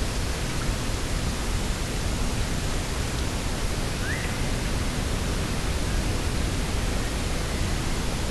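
Steady rushing noise of wind and sea on the coast, even and unbroken, with one faint short rising bird chirp about four seconds in.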